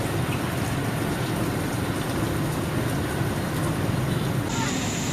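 Heavy rain pouring onto a flooded street with vehicle traffic rumbling through it, a steady, even noise; a higher hiss steps up abruptly near the end.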